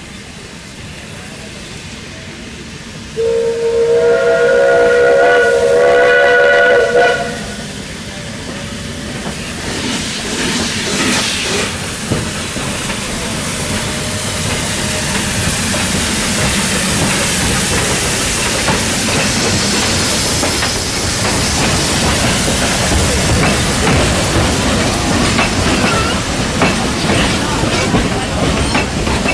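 The steam whistle of ex-South African steam locomotive NG123 sounds one long, loud blast lasting about four seconds, a few seconds in. After it, the locomotive's steam hiss and the clatter of its wheels on the rails grow louder as it approaches.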